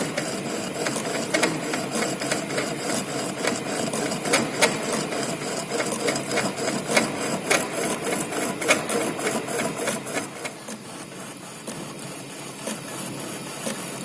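Centre lathe running a straight-turning cut on a metal bar, the tool cutting with a dense, irregular crackling and rattling over the machine's steady running noise. The crackling thins out and the sound drops about ten seconds in while the machine keeps running.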